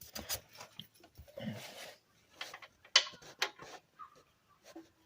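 Scattered light clicks and brief scrapes of hands and metal parts as a compression-tester adapter is worked into the spark plug hole of a two-stroke golf-cart engine.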